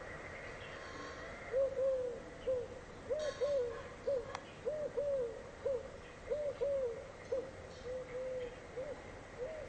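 A bird calling with short hooting notes that rise and fall, often in pairs, about two a second. The calls begin about a second and a half in.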